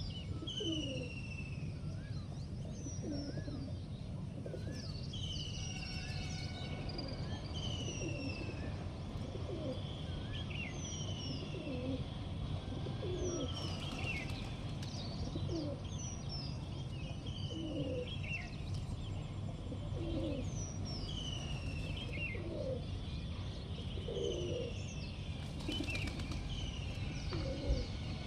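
Pigeons cooing repeatedly, with small birds chirping in short descending chirps over them. Pigeon wings flap briefly a couple of times.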